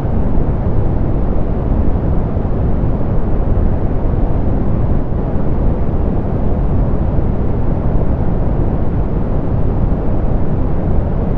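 Steady, softened pink noise: an even hiss weighted toward the low end, with no tones or changes.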